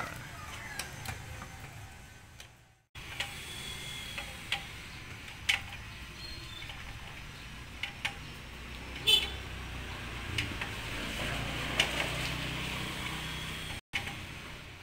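Scattered light metal clicks, taps and knocks from hand tools and exhaust parts being fitted, over a low steady workshop hum.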